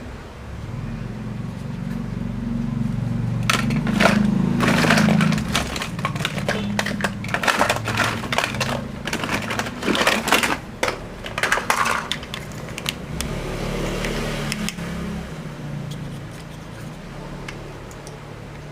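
Hard plastic toy vehicles being handled and knocked together, with a run of clattering clicks and rattles from about three seconds in until about twelve seconds in, over a low rumble throughout.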